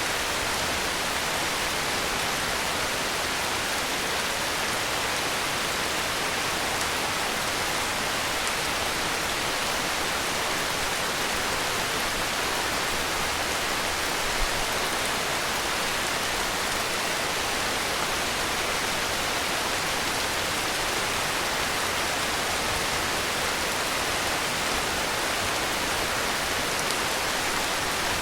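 Heavy rain falling steadily, an even hiss of rainfall with no breaks. One small low thump about halfway through.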